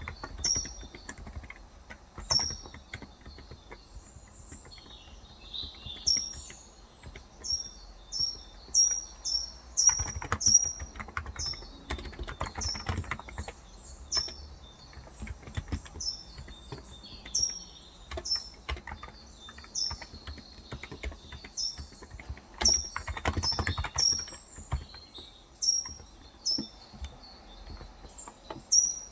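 Typing on a Cox Endeavor tenkeyless electro-capacitive (contactless) keyboard with light 35 g switches, the keystrokes coming in bursts with pauses between. A bird keeps calling over it with short, high chirps that drop sharply in pitch, often a couple a second.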